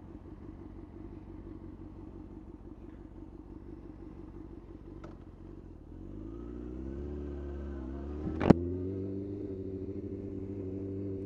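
2003 Yamaha R6 inline-four with an aftermarket Remus exhaust can, idling steadily, then revving up as the bike pulls away, with a short dip in pitch and a single sharp click about two-thirds of the way through before it settles into a steady, higher running note.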